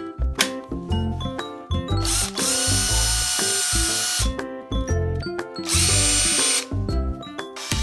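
Cordless power tool being run off load in a function test: the motor spins up and whines steadily for about two seconds, stops, then runs again briefly for about a second.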